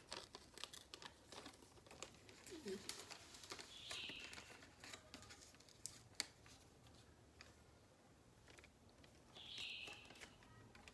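Faint rustling and crinkling of a calendar paper sheet being folded and creased by hand, with many small crackles and clicks that thin out after about seven seconds. A few short high-pitched blips sound alongside it.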